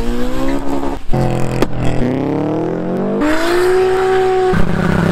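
Performance cars accelerating hard away from the camera, engines revving and rising in pitch through the gears, in several short back-to-back clips. A single sharp crack about one and a half seconds in, and a steadier low engine drone near the end.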